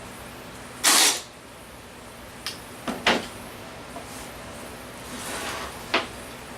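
Plastic storage bins being handled on shelves: a loud sliding scrape about a second in, a few short knocks around three seconds, then a softer slide ending in a sharp knock near the end.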